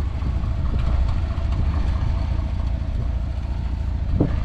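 1990 Dodge Power Ram's 3.9-litre V6 idling steadily, with a brief knock about four seconds in.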